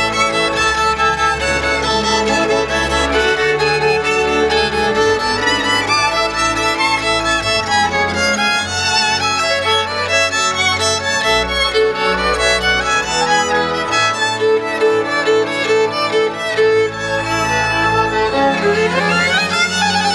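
Instrumental music led by a violin over accompaniment, with a rising run near the end.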